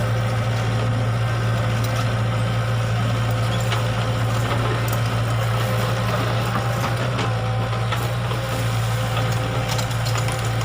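Excavator's diesel engine running steadily at an even pitch, with a few faint clicks and knocks from the machine working.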